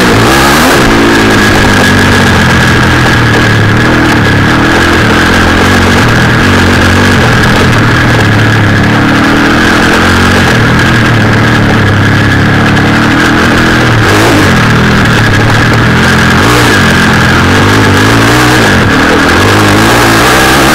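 Four-stroke off-road motorcycle engine running loud under way, its note rising and falling as the throttle is opened and closed, several times. A steady high-pitched whine sits over the engine, with wind noise.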